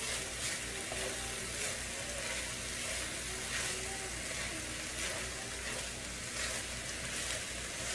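Fried rice sizzling in an electric skillet as a wooden spatula stirs and turns it: a steady hiss with faint scraping ticks of the spatula against the pan.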